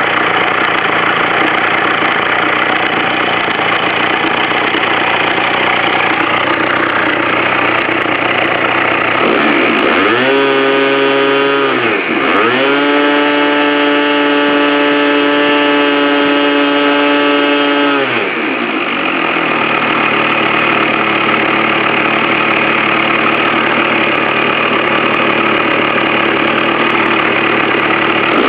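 Small glow-plug (nitro) model engine with an onboard glow-plug heater idling roughly, then throttled up to a high even note twice, once briefly about a third of the way in and then held for about five seconds, before dropping back to idle.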